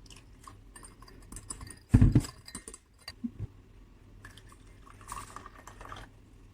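Clinks of a spoon against a cup or glass while matcha powder is mixed into water, with one loud knock about two seconds in, like a cup set down hard. About five seconds in comes a second of brisk stirring or whisking.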